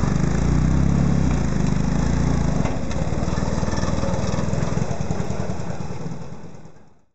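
Buckler DD2 sports-racing car's race-prepared Ford 1172 sidevalve four-cylinder engine pulling the car away and driving it off. The engine is loudest in the first couple of seconds, then runs steadier and dies away near the end.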